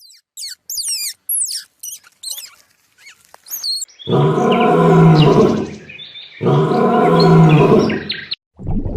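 Animal calls: a run of short, high chirping whistles, then two long, low calls from a larger animal, each lasting about two seconds.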